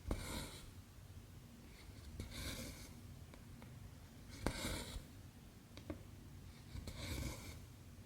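Cotton embroidery thread drawn through cross-stitch fabric: four rustling pulls, about two seconds apart, one of them opening with a light tick.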